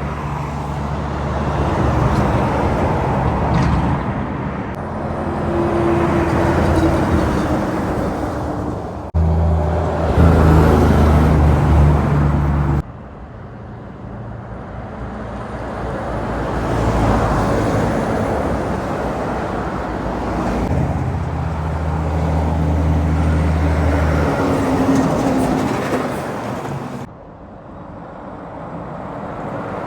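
Heavy trucks driving past on a highway: diesel engines running with steady low tones over tyre and road noise. The sound changes abruptly three times, near 9, 13 and 27 seconds, as one passing truck gives way to another.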